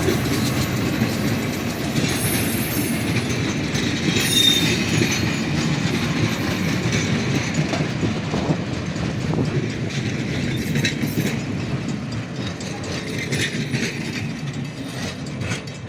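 Train rolling past, a steady rumble with wheels clacking over the rail joints and a brief wheel squeal about four seconds in. The rumble eases slightly near the end.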